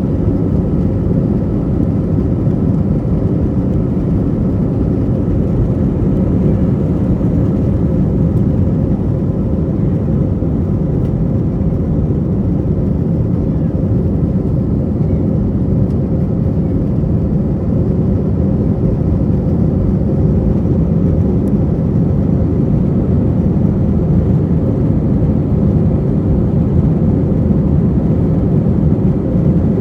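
Airbus A321 engine and airflow noise heard inside the passenger cabin: a steady, dense rumble with a faint even hum on top.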